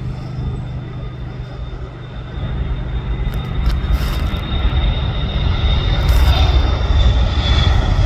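Aircraft engine noise growing louder from about two seconds in as a plane approaches, with a thin steady high whine over a low rumble.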